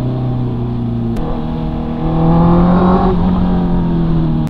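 2022 Honda CB650R's inline-four engine pulling as the bike accelerates, heard from the rider's seat. The note breaks about a second in, then runs slightly higher and grows louder as the throttle opens.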